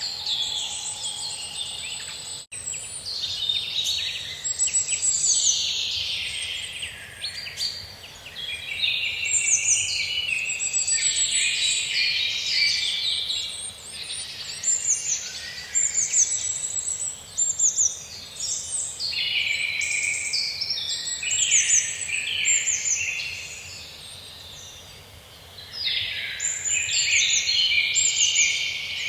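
Forest birdsong: several birds singing at once in overlapping high chirps and trills, easing into a brief lull about three-quarters of the way through before picking up again. A faint steady background hiss lies underneath, and the sound cuts out for an instant about two seconds in.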